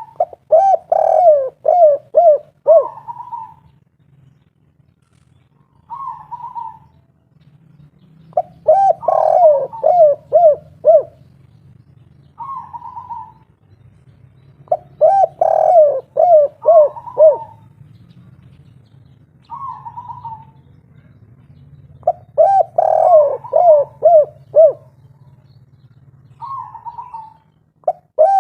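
Spotted dove (tekukur, derkuku) singing its 'kuk 3' coo, repeated four times about every six to seven seconds: each phrase is a run of about five quick, lower arched notes with a short higher coo before and after it. A faint low hum runs beneath.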